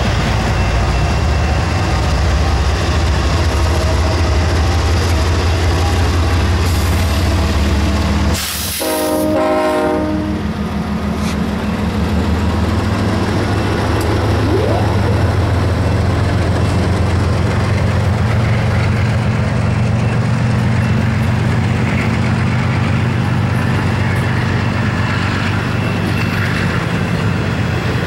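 Freight train passing close by: its diesel locomotives run with a heavy, steady low rumble, then the double-stack container cars roll past on the rails. A brief dip in the rumble about nine seconds in carries a short pitched tone.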